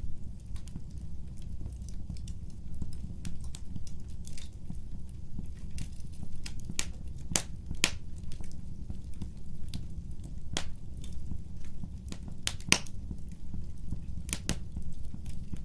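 Wood fire crackling: irregular sharp pops and snaps over a steady low rumble, with a few louder pops scattered through.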